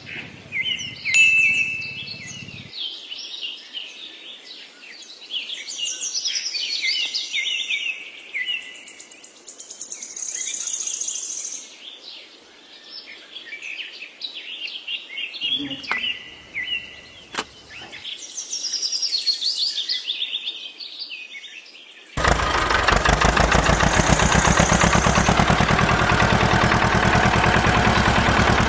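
Small birds chirping and whistling in quick varied calls. About three-quarters of the way through, an engine suddenly starts running loudly with a fast, even knock and keeps going to the end.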